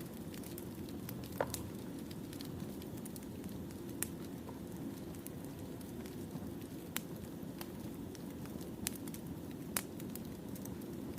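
Burning firewood: a steady low rush of flame with sharp crackles and pops scattered throughout, about five of them clearly louder than the rest.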